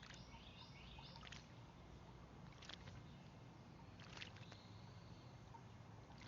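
Faint songbird sounds and bath splashes: a quick run of warbling high notes in the first second, a few short splashes of birds bathing in the bird bath, and a thin held whistle for about a second midway.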